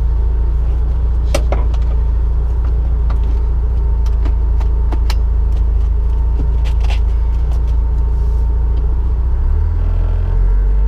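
Porsche 944's naturally aspirated 2.5-litre inline-four running steadily after its rebuild, with a few light clicks over it. The engine note shifts near the end. The breaking up it had before was traced to a torn spark-plug wire boot letting the spark jump.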